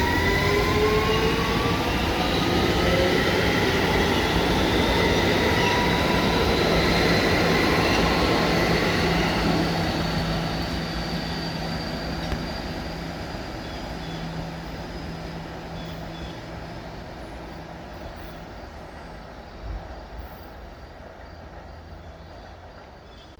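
Staten Island Railway electric train pulling out, its traction motors whining in a steadily rising pitch over the rumble of the wheels on the rails. The sound stays loud for about ten seconds, then fades away as the train recedes.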